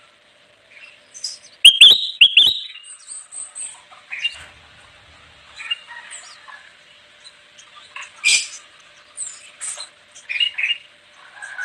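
Kutilang emas, a bulbul, calling in short, sharp chirps. The loudest is a quick cluster of notes about two seconds in, followed by scattered single calls.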